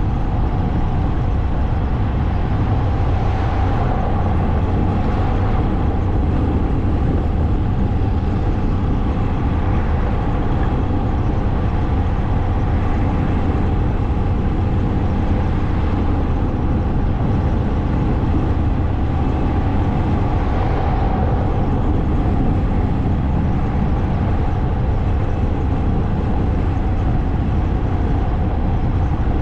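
Motorcycle being ridden at a steady pace: engine running with a constant rush of wind and road noise, unchanging in level.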